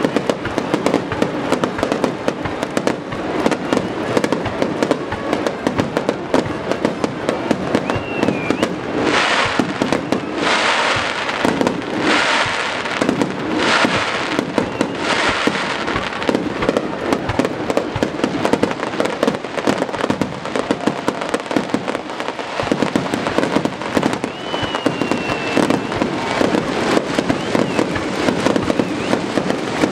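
Aerial fireworks display: a dense, continuous barrage of shells bursting with sharp bangs, with stretches of hissing crackle around the middle.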